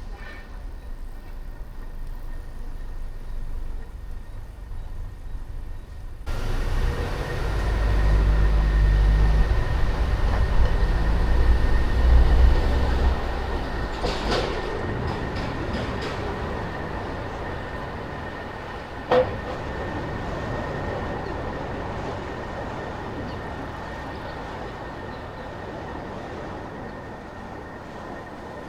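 Road and vehicle noise during a city drive: a low rumble comes in suddenly about six seconds in, swells for several seconds, then slowly fades, with a steady high whine running through it and a single sharp click about nineteen seconds in.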